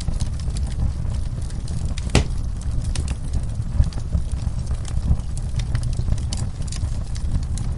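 Wood fire in a fireplace crackling, with many small sharp crackles over a steady low rumble of the flames and one louder pop about two seconds in.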